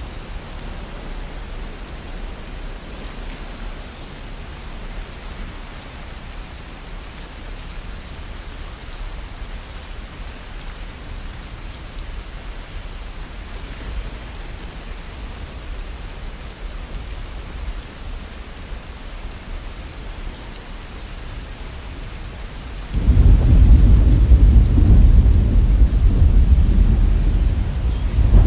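Heavy rain falling steadily. Near the end a sudden, loud, deep rumble of thunder breaks in and keeps rolling.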